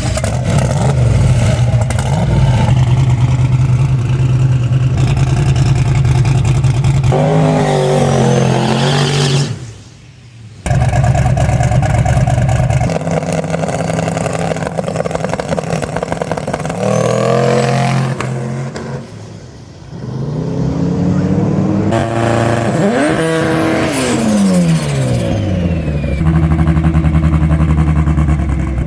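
Drag racing cars' engines held at high revs and accelerating down the strip, in several loud runs. The pitch steps and falls as the cars shift gears and pass by. The sound cuts off abruptly once near the middle.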